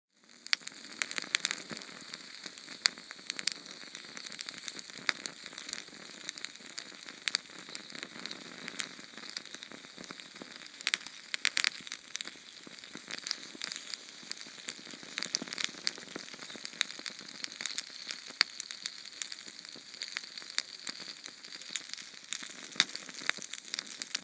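Small Sterno canned-fuel flame burning: a steady hiss with dense, irregular crackles and pops.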